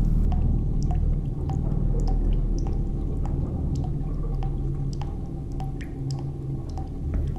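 Short, regular ticks about two a second over a low, steady drone.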